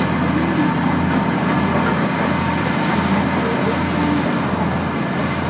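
Diesel railcar under way, heard from inside the passenger car: a steady drone of the engine with the rumble of the wheels on the rails, unbroken throughout.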